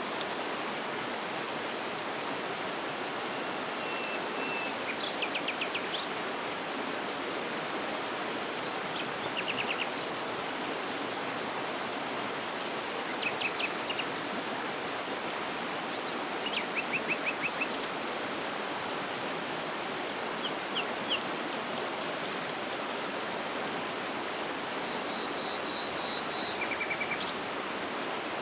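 Waterfall rushing steadily, with small birds calling over it several times in short, rapid series of high notes.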